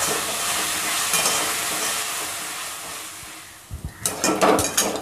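Diced potato, carrot, onion and peanuts sizzling in hot oil in a metal wok while being stirred with a spatula, frying until the potato softens. The sizzle fades after about three seconds, and quick, irregular spatula strokes then scrape and clatter against the pan.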